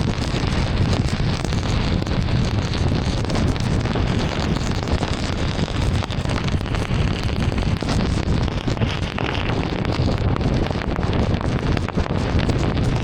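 Steady rumble and hiss of a car driving through heavy rain: rain pelting the car and tyres running on the flooded road, with fine patter throughout.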